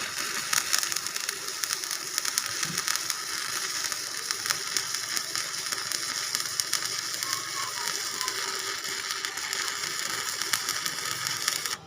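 Electric arc welding on a metal hinge: the arc's steady crackling sizzle, which cuts off suddenly near the end.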